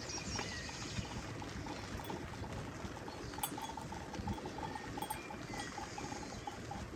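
Steady rain falling, with a few scattered drip taps. From about halfway, a fast, regular series of short, high beeping tones joins in.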